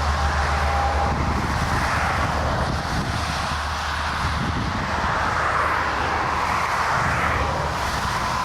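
Airbus A330 jet engines running: a steady rushing noise that swells and eases, with a low rumble that dies away about a second in.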